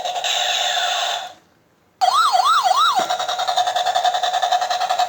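Toy SWAT helicopter's electronic sound effects: a steady, fast-pulsing electronic tone that cuts out about a second and a half in. After a brief gap come three quick rising-and-falling siren wails, and then the pulsing tone resumes.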